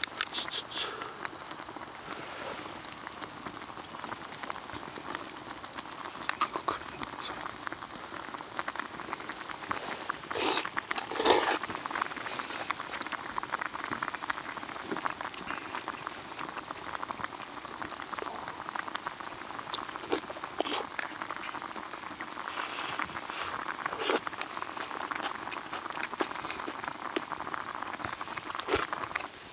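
Sukiyaki simmering in a cast-iron pot, a steady bubbling and sizzling, with a couple of louder knocks about ten seconds in.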